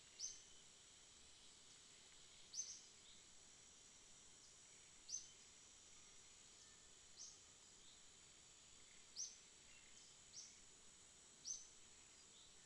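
Faint night ambience: a steady, high insect drone, with a short, sharp, high chirp repeating about every couple of seconds, seven times.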